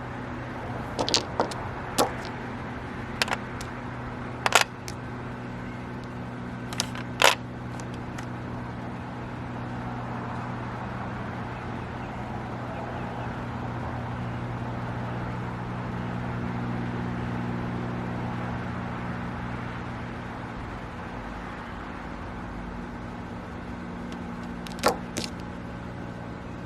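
Mahjong tiles clicking as they are handled and set down, a few sharp clacks in the first several seconds and one more near the end, over a steady low hum.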